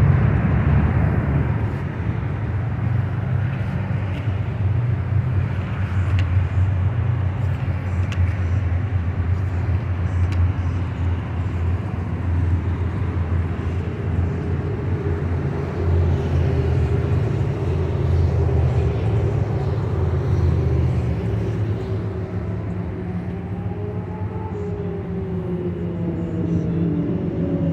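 Motorcycle engines running steadily, with engine pitch rising over the last few seconds as a bike revs up or accelerates.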